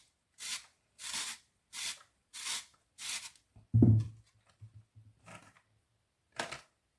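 Kitchen handling sounds: a run of six short scraping or rustling strokes at an even pace, about one every half second or so, then a single heavier thump, a few faint knocks, and one more short stroke near the end.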